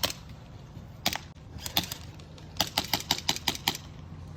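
Airsoft gun firing sharp snapping shots: a few single shots, then a quick string of about eight in just over a second.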